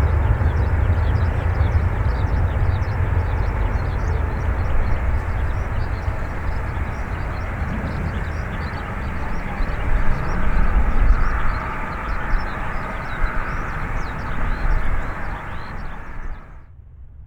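Jet airliner noise after landing, a loud, deep, steady rumble that swells slightly, then cuts off abruptly near the end.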